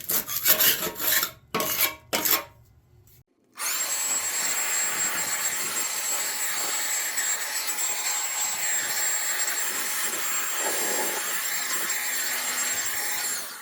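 Scraping strokes of caked grass being scraped off the underside of a Ryobi riding mower deck for about three seconds. After a short break, a steady rushing noise with a thin high whine runs for about ten seconds and stops near the end.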